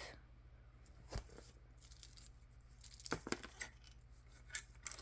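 A few faint, scattered clicks and taps of cards being handled: one about a second in, a small cluster around three seconds, and another near the end.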